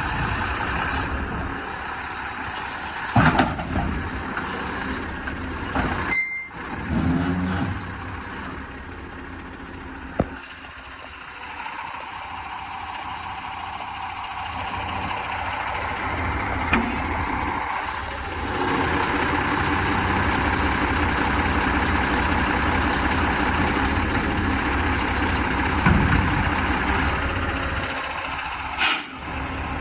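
2008 Mack GU713 dump truck's diesel engine running steadily, a little louder from about two-thirds of the way through, with a few short loud noises, one about three seconds in and one near the end.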